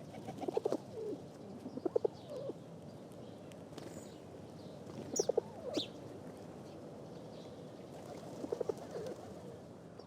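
Pigeons cooing in short runs of quick low notes, four times over, with a few high, falling chirps from smaller birds around the middle.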